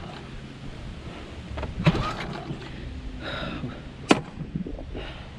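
Small outboard motor being pull-started: the recoil starter cord is yanked and the engine turns over without catching, with clicks and a sharp knock about four seconds in.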